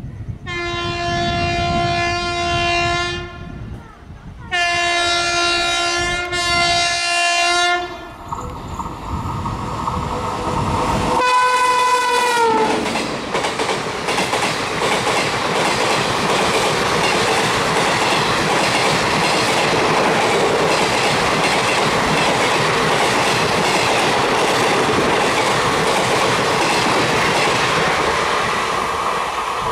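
WAP7 electric locomotive sounding long horn blasts as it approaches, then a shorter blast whose pitch drops as it passes about eleven seconds in. After that comes the steady rush and clickety-clack of the express coaches running through at speed.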